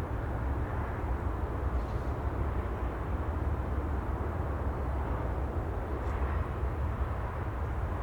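Ocean ambience: a steady, even wash of sea noise, heaviest in the low end, with no distinct wave breaks.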